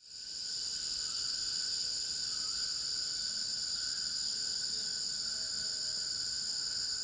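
Steady chorus of insects, a shrill continuous trilling at several high pitches that fades in over the first half second.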